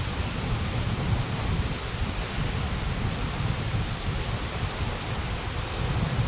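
Wind buffeting the microphone, a steady rumble with an even hiss above it.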